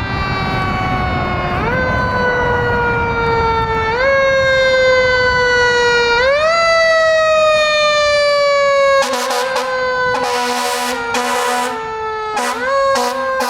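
A fire engine's Federal Q mechanical siren, its pitch sinking slowly and pushed back up in short rises every couple of seconds. About two thirds of the way in, several loud horn blasts sound over it, three in quick succession and then two more.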